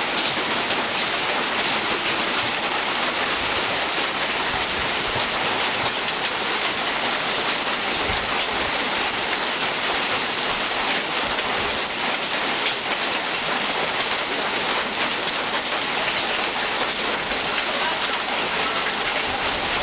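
Heavy rain pouring down in a steady, loud hiss with faint scattered patters.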